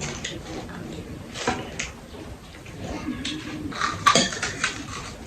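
Mealtime eating sounds close to the microphone: scattered clicks and knocks of bowls and spoons, with a sharp click about four seconds in and a brief low murmur.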